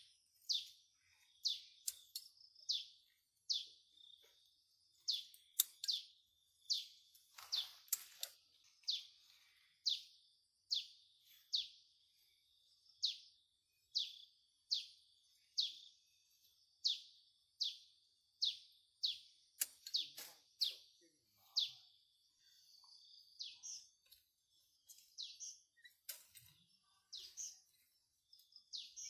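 A bird chirping over and over: a short, high, falling call repeated steadily about once a second. A few brief rustles or knocks come in between, the most noticeable about eight seconds and twenty seconds in.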